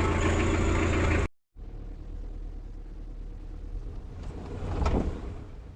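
Vehicle engine running with a steady low hum that cuts off abruptly a little over a second in. A quieter engine rumble follows, swelling briefly near the end.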